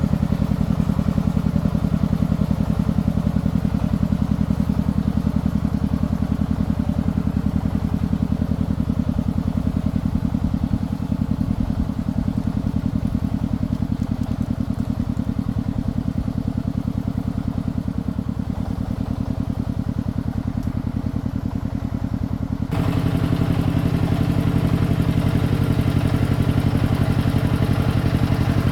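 Single-cylinder diesel engine of a công nông farm truck running steadily, with a fast, even beat. About 23 seconds in the sound changes abruptly and gets a little louder.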